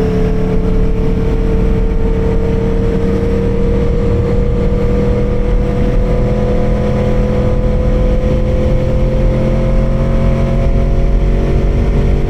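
Aprilia Tuono V4R's V4 engine running steadily under way, its pitch creeping slowly upward, over a low rumble of wind and road, picked up by a mic inside the rider's helmet.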